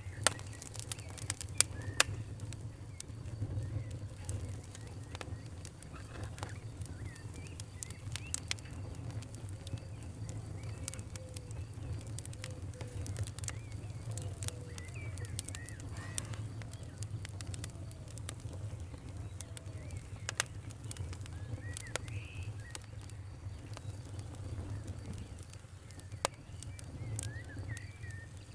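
Wood fire crackling, with irregular sharp pops and snaps over a steady low rumble. Faint short chirping bird calls come and go in the background.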